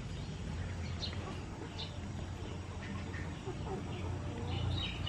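Short, high bird chirps, a few scattered times, over a steady low background hum.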